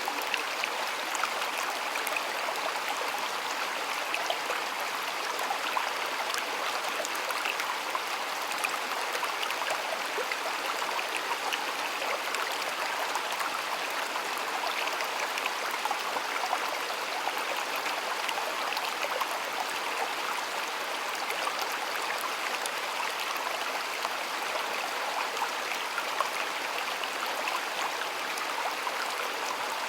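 Shallow stream water flowing steadily, with a constant rushing and fine splashing and trickling.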